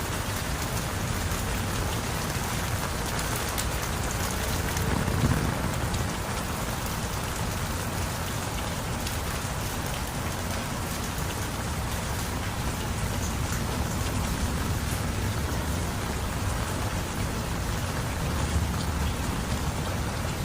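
Heavy rain falling steadily on surfaces, an even dense hiss with a brief low thud about five seconds in.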